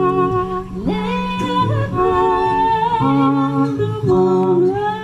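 Live band playing the closing bars of a song: a lead melody with vibrato, gliding up about a second in, over held chords.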